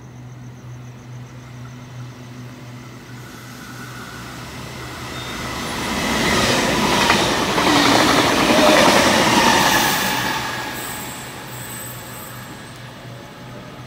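Double-deck electric train running through a station at speed. The rush of wheels on rail builds, peaks loud with some thin high wheel squeal, then fades away, over a steady low hum.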